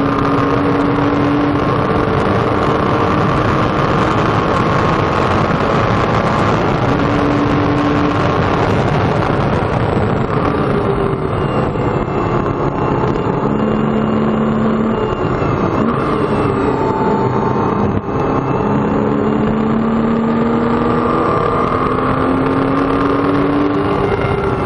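2007 Porsche Cayman S's 3.4-litre flat-six heard from inside the cabin, running hard at speed over steady wind and road noise. Its pitch drops as the car slows for a corner about halfway through, then climbs again as it accelerates out in a lower gear.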